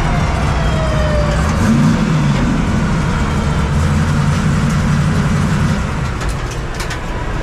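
Drag race car making a pass down the strip: its engine note glides downward over the first second or so above a steady, heavy low rumble, with a few sharp clicks near the end.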